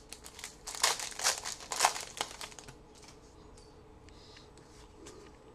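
A trading-card pack wrapper crinkling and tearing as the pack is opened. The crackling is busy for the first two and a half seconds, then drops to a few faint rustles and ticks.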